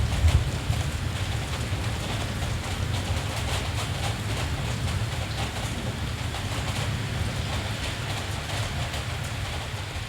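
Steady rain falling, with fine drop ticks over a continuous low rumble.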